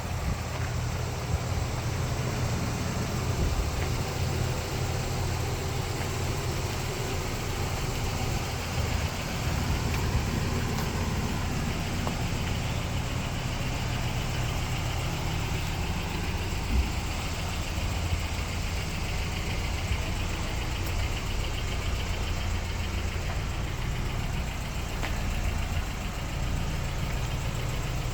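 Toyota pickup truck engine idling steadily, with one short knock about two-thirds of the way through.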